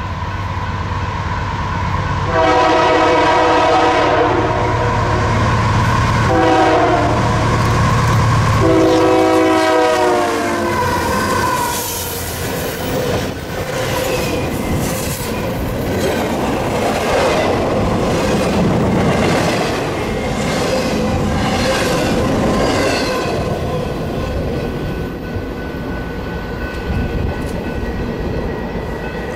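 Locomotive multi-chime air horn sounding three blasts, the last sliding down in pitch as the locomotive passes. Then the train rumbles by with a rhythmic clickety-clack of wheels over the rail.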